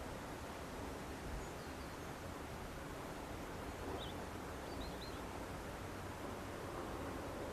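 Steady wind noise with rustling, and a few faint, short, high bird calls about one and a half, four and five seconds in.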